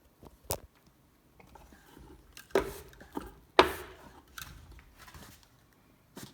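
Sharp knocks and clunks from tending a wood-burning stove, firewood and stove parts being handled: a crisp tap about half a second in, two heavier clunks about two and a half and three and a half seconds in, and lighter taps near the end.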